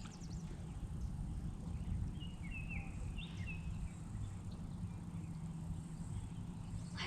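Outdoor ambience on a river: a low, steady rumble, with a bird chirping a few quick notes about two to three and a half seconds in.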